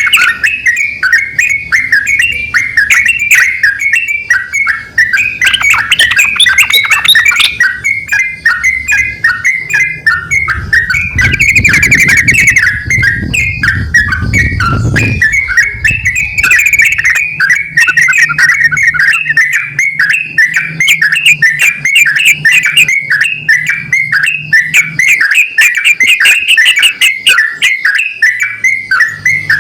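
Yellow-vented bulbuls, a male and a female, calling back and forth in a quick, unbroken chatter of short bubbly notes. A low hum runs underneath, with a low rumble swelling and fading around the middle.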